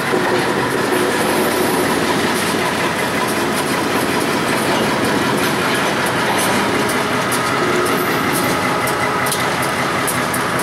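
Short freight train moving on the rails behind an EMD diesel switcher, a steady loud rumble with light clicking of wheels over rail joints.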